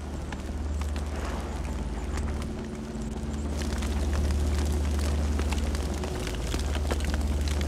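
Campfire burning, with a steady low rumble and frequent sharp crackles and pops from the burning wood; the crackling grows busier about halfway through.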